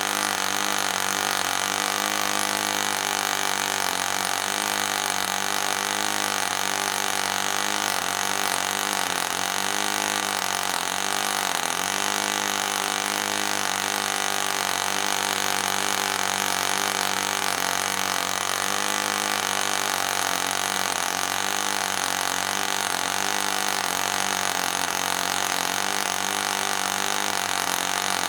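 ENYA 09-III model glow engine running steadily with an 8x4 propeller, its speed sagging briefly a few times around the middle. The restored engine leaks compression.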